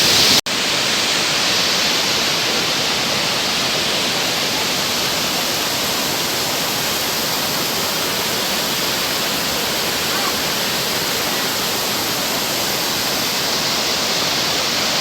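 Steady rushing of a large waterfall heard close by, a constant noise that the visitor likens to a motor running. The sound cuts out for an instant less than half a second in.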